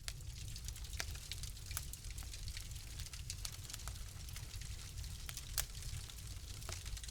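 Fire in a fireplace crackling: frequent sharp pops and snaps at irregular intervals over a steady low rumble and a soft hiss, with one louder pop about five and a half seconds in.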